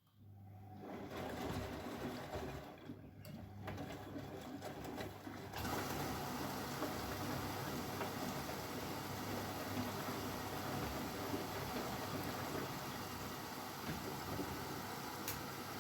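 Bosch Maxx WFL 248Y front-loading washing machine running mid-cycle: a steady mix of low motor hum and water. It fades in at the start and turns fuller and brighter about five and a half seconds in.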